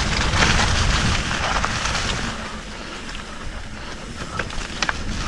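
Wind rushing over the microphone and a mountain bike's tyres rolling over a dirt trail on a descent, with a few sharp clicks and rattles from the bike near the end.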